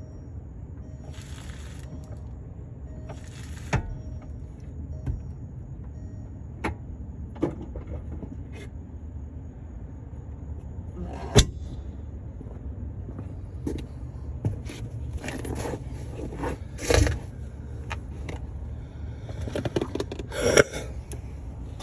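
Tools and parts being handled: scattered sharp clinks and knocks and a few short scrapes, busier near the end, over a steady low rumble.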